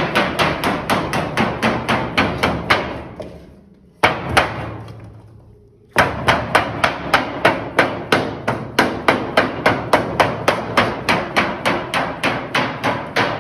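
Mallet tapping quickly along a bend in sheet metal, about three to four blows a second, to true the corner to 90 degrees. The tapping pauses about three seconds in, with two blows during the pause, then picks up again at the same pace.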